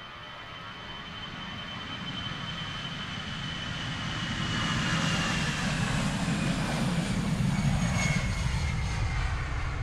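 An aircraft flying over, growing steadily louder, with a high whine that slowly falls in pitch.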